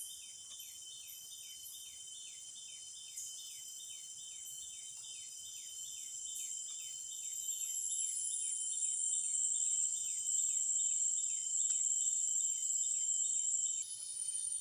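Chorus of forest insects: a steady high shrill with a rhythmic falling chirp about three times a second. A louder, higher shrill swells after about seven seconds and slides down in pitch.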